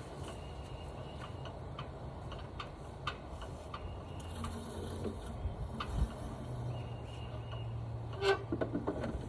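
Portable sawmill engine running steadily at a low level, with light ticks about twice a second and a few sharper knocks near the end.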